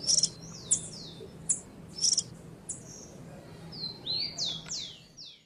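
A bird calling, with several short, sharp high chirps. Then, from about four seconds in, comes a quick run of whistled notes that each slide downward.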